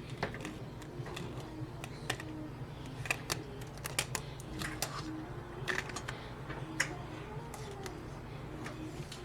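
Irregular light clicks and taps, about two or three a second and uneven, from kittens at play, over a steady low hum.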